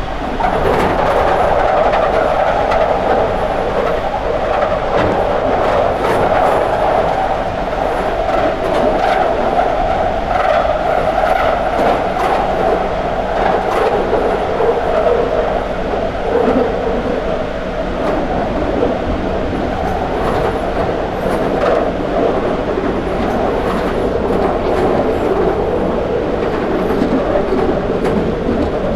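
London Underground 2009 Stock train running at speed through the tunnel, heard from onboard: a loud, steady rumble and hum with scattered wheel clicks, getting suddenly louder right at the start.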